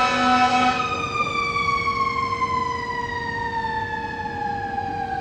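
Fire truck's air horn blasting a loud steady chord that cuts off under a second in. Its siren goes on winding down, the pitch falling slowly.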